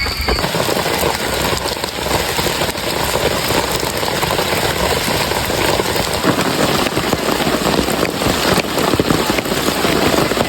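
Heavy tropical rain pouring down: a steady, dense patter of drops.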